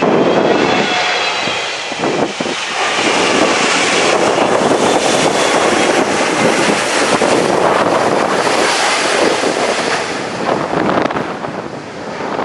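Strong wind buffeting the microphone, with a landing jet airliner's engines running under it; a faint falling engine whine is heard in the first few seconds.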